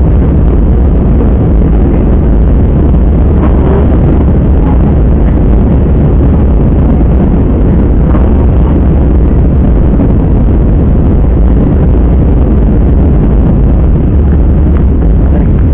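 Jet airliner cabin noise in flight: a loud, steady, low rumble of engines and airflow.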